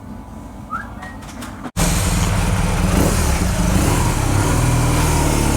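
A quieter stretch with a low engine hum, then an abrupt cut a little under two seconds in to a 2007 BMW R1200GS flat-twin motorcycle being ridden: the engine running under a heavy rush of wind noise.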